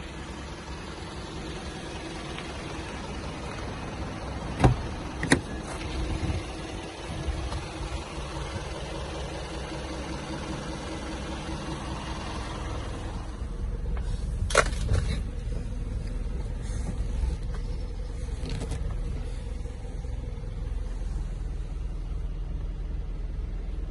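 Isuzu Forward N75.150's 3.0-litre diesel engine idling steadily, with a few sharp knocks: two about five seconds in and another cluster about halfway through.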